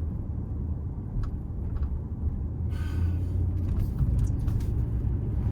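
Steady low rumble of a Ram 1500's 5.7-litre Hemi V8 and road noise heard from inside the cab while driving, with a couple of faint clicks and a brief rush of noise about three seconds in.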